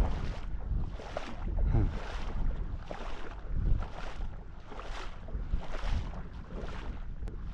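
Shallow water sloshing in soft surges about once a second, with wind buffeting the microphone.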